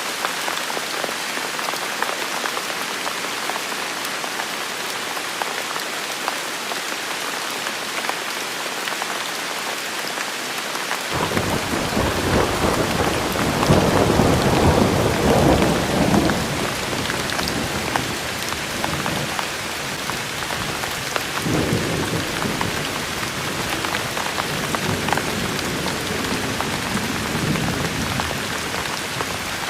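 Steady rain falling. About a third of the way in, a rumble of thunder starts suddenly, is loudest a few seconds later, then rolls on in waves and dies away near the end.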